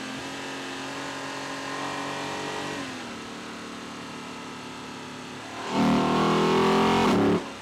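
Lexus LC 500's 2UR-GSE 5.0-litre V8 induction noise heard from inside the engine bay while driving: a steady engine note that settles to a lower pitch about three seconds in. Near the end a loud burst of acceleration lasts about a second and a half and cuts off suddenly.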